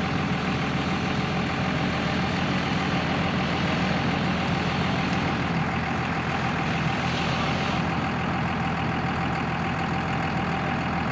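Truck engine idling steadily, with a steady tone held above its low rumble.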